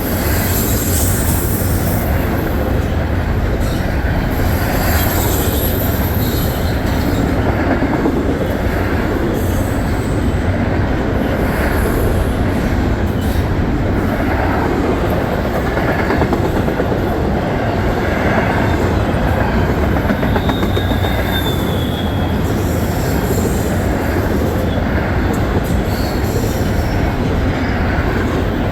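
Norfolk Southern intermodal freight cars rolling past: a steady rumble and clatter of wheels on rail, with a few brief thin squeals from the wheels.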